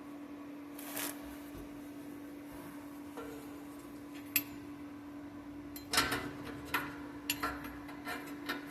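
Scattered light metallic clicks and knocks of tools or metal parts being handled, several in quick succession in the second half, over a steady electrical hum.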